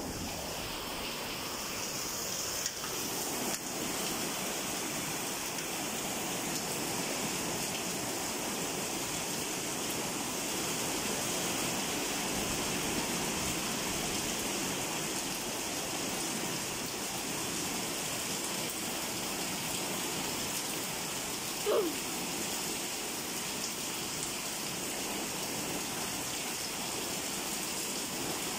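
Steady rain pouring down, a continuous even hiss of falling water and splashing. One brief falling squeak cuts through about three-quarters of the way in.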